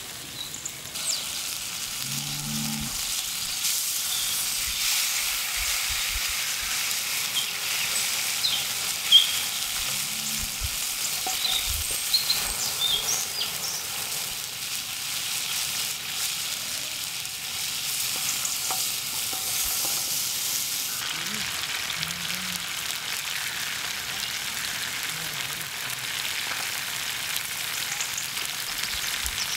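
Chicken wings frying on a sadj, a wide iron pan over a wood fire: a steady high sizzle with scattered small crackles and one sharper pop about nine seconds in.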